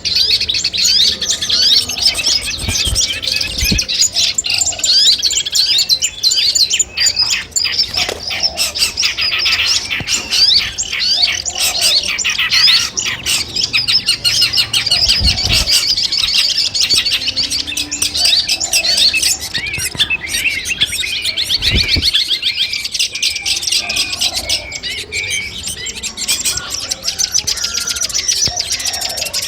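Long-tailed shrike (cendet) singing a continuous, rapid, high-pitched chattering song, with a few low thumps along the way.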